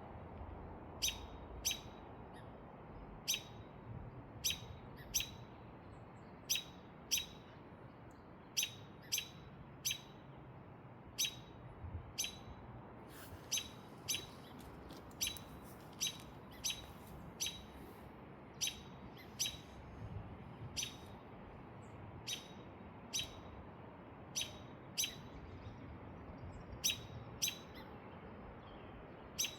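A bird chirping: short, sharp single chirps repeated about once a second, often in quick pairs, over faint background hiss.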